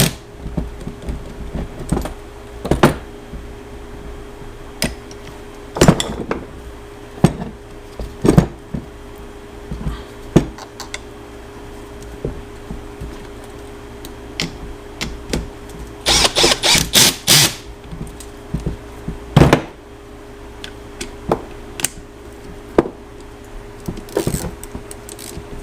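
Hand tools knocking and clinking against metal parts during motorcycle starter installation, in separate sharp strikes with a quick run of clicks about sixteen seconds in. A steady hum runs underneath.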